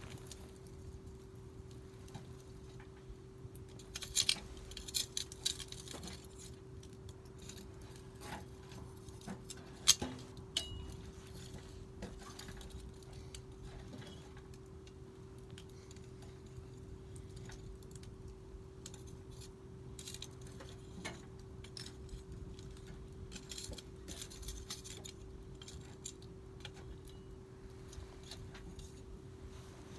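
Wood fire crackling quietly, with scattered sharp pops: a quick cluster about four to five seconds in, one loud pop about ten seconds in, and another flurry near the end.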